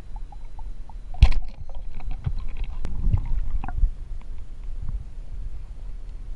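Water sloshing and rumbling around the camera, with one sharp knock about a second in and a scatter of smaller clicks and thumps after it.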